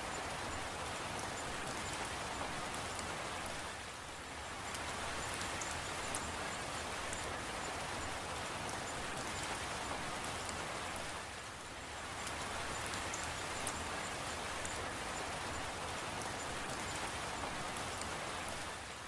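Steady rain falling, a dense even hiss with scattered light drip ticks, easing briefly about every seven and a half seconds.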